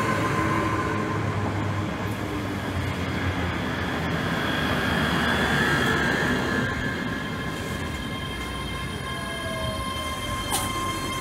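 ScotRail Class 385 electric multiple unit moving along the platform: a steady rumble of wheels on rail, with a steady electric whine from the train's traction equipment. There is one sharp click near the end.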